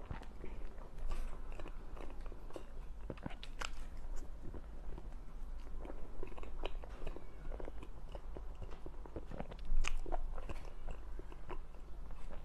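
Close-miked eating of a dessert: bites and chewing, heard as irregular short mouth clicks, with one louder bite about ten seconds in.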